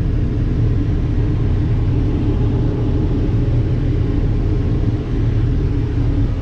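Tractor engine running steadily, a continuous low drone with a small dip about five seconds in, while it pulls a chaser bin.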